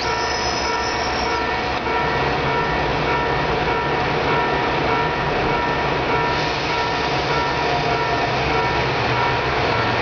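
KiHa 125 single-car diesel railcar pulling away, its diesel engine running under power with a steady drone; the engine note steps up about two seconds in.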